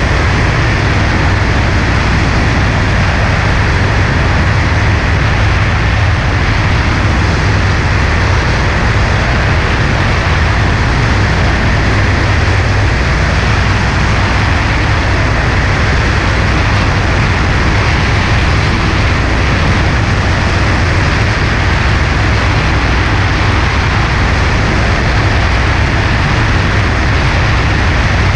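Cessna 140A light aircraft in flight, its engine and propeller running at a steady cruise setting with a loud, unchanging drone and rushing airflow.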